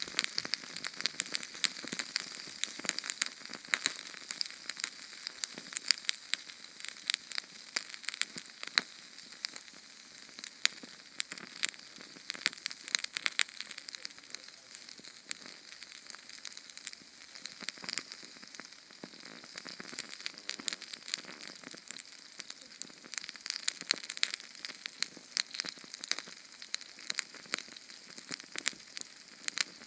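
Small Sterno canned-heat flame crackling: a dense, unbroken run of sharp ticks and pops over a steady soft hiss.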